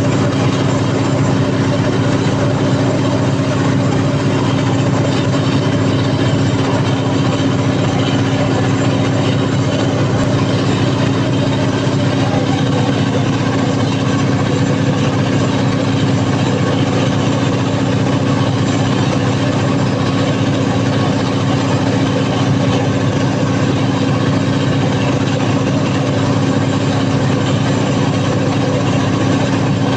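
Cummins KTA50 V16 diesel engine of a 750 kW generator set running steadily and loud after a general overhaul, as it does on a load test.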